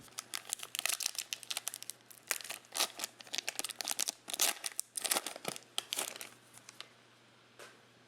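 Foil wrapper of a 2020 Mosaic football card pack crinkling and tearing as the pack is opened, an irregular crackling that stops about a second before the end.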